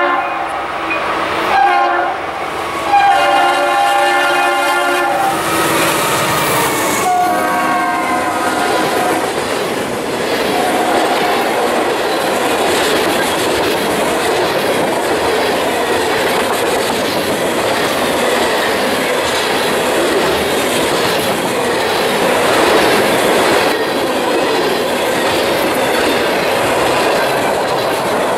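A freight locomotive's multi-chime air horn sounds two long blasts and then a short one, its pitch dipping as it passes. After that comes the steady rumble and wheel clatter of a long freight train's cars, covered hoppers and boxcars, rolling past close by.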